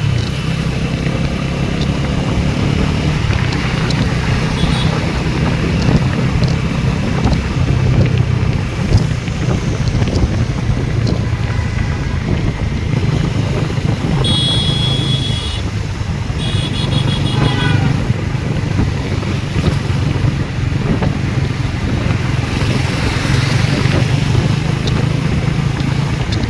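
Motorcycle engine running steadily while riding, with wind noise on the microphone. Two high-pitched beeps sound about halfway through, the second pulsing.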